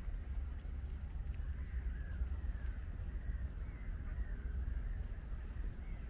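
Faint bird calls, short curved notes repeated every second or so, over a steady low rumble.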